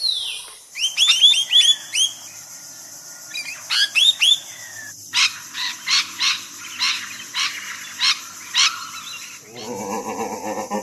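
Bird calls: groups of quick rising chirps, then a series of sharp calls about twice a second. Near the end a lower, rougher sound takes over.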